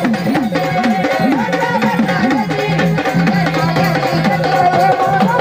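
Gondhal devotional music: a bass drum with strokes that bend up and down in pitch, about two a second, in a steady rhythm over sustained organ notes.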